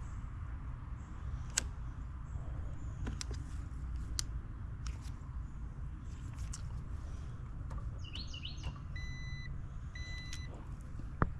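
Two short electronic beeps about a second apart, over a steady low rumble with scattered clicks of hand work on the unit and a brief bird chirp just before the beeps.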